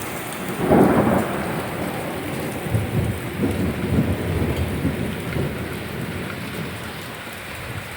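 Hailstones pelting down in a heavy storm as a dense, continuous clatter, with a loud swell about a second in and irregular heavier surges before it eases off toward the end.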